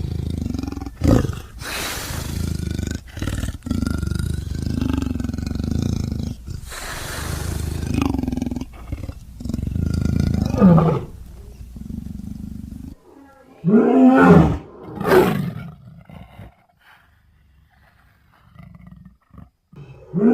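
Designed monster growls and roars layered from big-cat and bear recordings: a long rumbling growl that cuts off suddenly about two-thirds in, then two loud roars, then near quiet.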